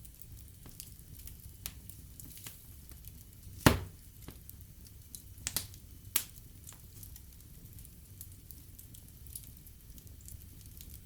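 Wood fire burning in a fireplace: a low steady rumble with scattered light crackles, one loud sharp pop about a third of the way in and a few smaller pops soon after.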